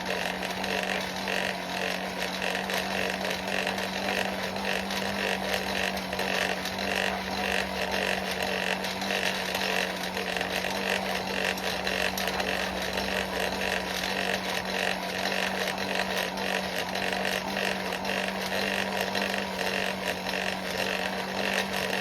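Forge blower running steadily with a constant hum, air rushing through the fire pot, as a chain link is brought up to welding heat.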